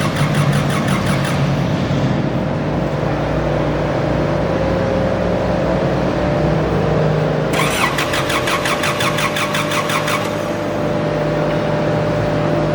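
Pulling garden tractor engine running steadily at a constant pitch, with a rapid high rattling at about ten ticks a second that comes and goes: at the start, for a couple of seconds about eight seconds in, and again near the end.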